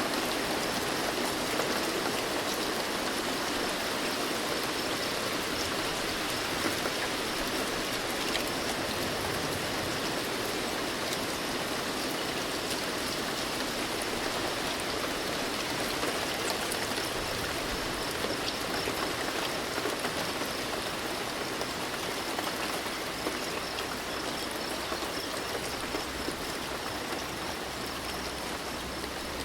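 Steady rainfall, an even hiss of rain with many small drops ticking through it.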